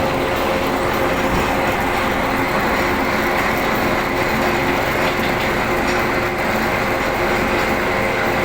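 Metal lathe running steadily while cutting a square thread, a constant machine noise with a steady whine held through.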